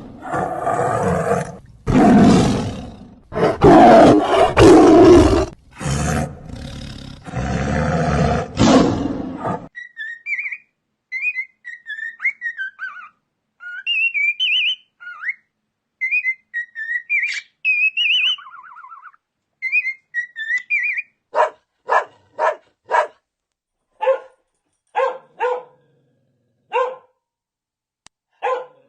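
Animal calls in sequence: for about the first ten seconds a large animal roars in several long, loud calls. Then come quieter high chirping calls that slide up and down. From about two-thirds of the way in, a dog barks in short, separate barks.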